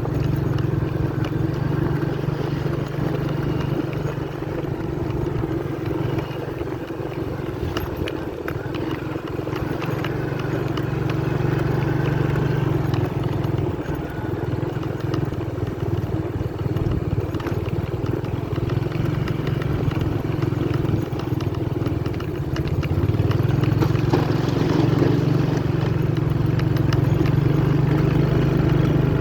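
Motorcycle engine running as it is ridden along a rough off-road track, its pitch and load shifting, and running louder from a little over three-quarters of the way through.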